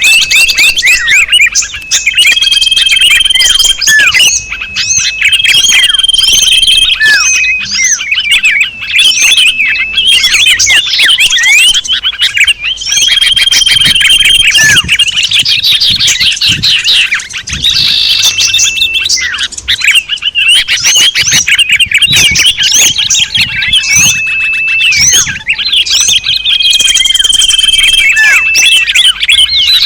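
Bird-lure recording of many small songbirds chirping and trilling together in a dense, loud chorus, with a steady whistled note held about a second that recurs every few seconds.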